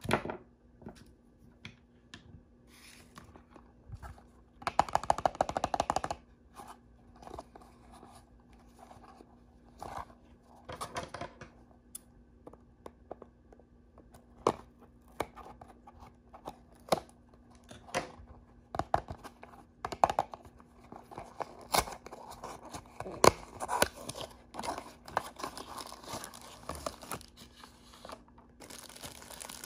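Blind-bag and toy packaging being torn open and crinkled by hand, with scattered clicks and taps; a quick run of tearing comes about five seconds in.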